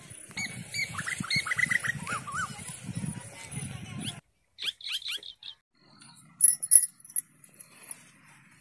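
Small birds chirping in short rising and falling calls over a low, irregular rumbling. After a cut partway through there are a few more quick falling chirps and a brief burst of sharp, high clicking.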